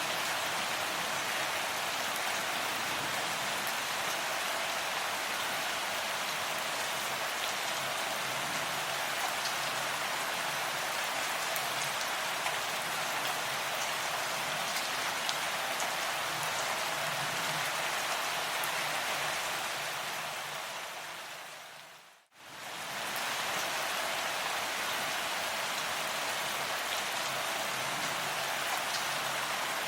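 Steady rain falling and pattering on surfaces. About two-thirds of the way through it fades down to near silence and swells straight back up.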